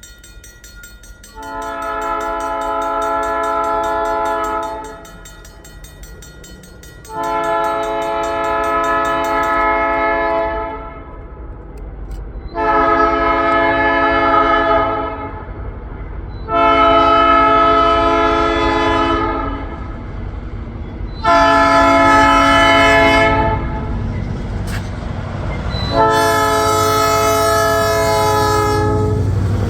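EMD SD38-series diesel locomotive's air horn sounding six long chord blasts, the last still going at the end, over a low diesel rumble that grows louder near the end as the train approaches.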